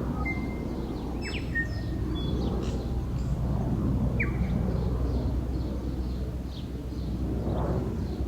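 Wild birds giving a few short chirps, several in the first two seconds and one more about four seconds in, over a steady low rumble of outdoor background noise.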